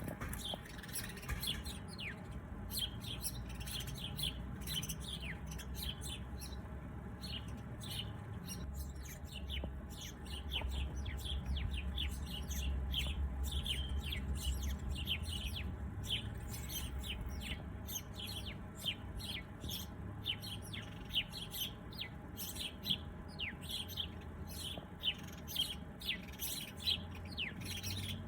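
Many small birds chirping and tweeting in quick, short calls, over a low background rumble that grows louder around the middle.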